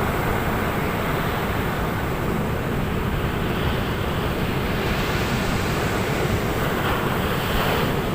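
Ocean surf breaking on a beach: a steady low rumble of waves, with the hiss of washing water swelling about four seconds in and again near the end.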